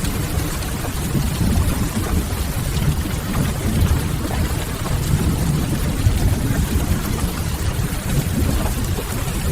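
Steady rain ambience with a crackling wood fire, over a constant low rumble.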